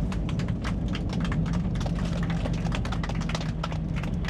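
Airliner cabin noise on the ground after landing: a steady low engine hum with rapid, irregular clicking and rattling over it.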